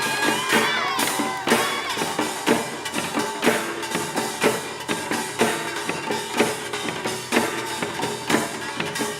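Pungmul percussion ensemble playing: Korean drums and gongs struck in a steady beat, with strong strokes about twice a second over a ringing metallic tone.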